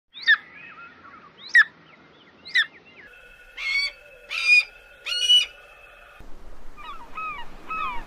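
Wild bird calls in three spliced stretches: three sharp calls sweeping up and down in pitch about a second apart, then three harsh ringing calls, then a quick series of short falling notes, about two a second.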